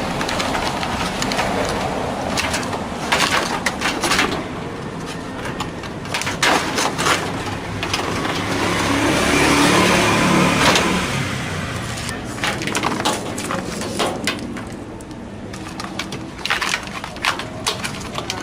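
Plastic parts of a washing machine's top lid assembly being handled and fitted, with scattered clicks and knocks, and a rush of noise that swells and fades about halfway through.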